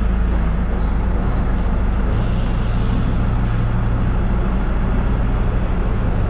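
Engine of a farm loader with a pallet fork running steadily. Its low hum strengthens about two seconds in.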